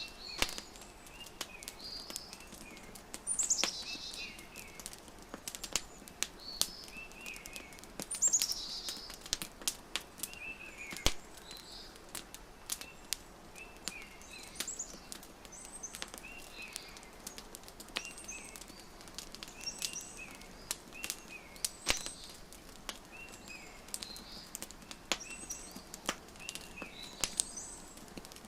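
Fireplace crackling with frequent sharp pops, mixed with small birds chirping in short repeated phrases; the loudest are falling chirps about three and eight seconds in.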